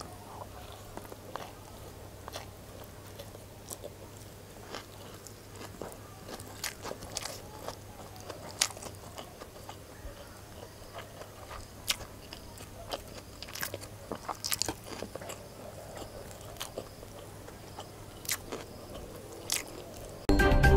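Close-up chewing and biting of fried rice, with scattered sharp clicks and short scrapes of wooden chopsticks on the food and plate, over a low steady hum. Loud music cuts in just before the end.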